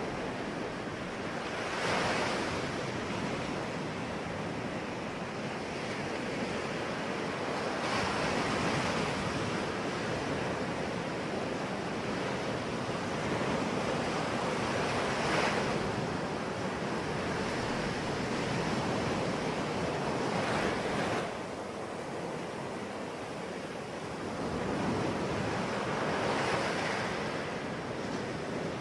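Ocean waves breaking on the shore, a continuous rushing wash that swells with each breaker about every five to six seconds.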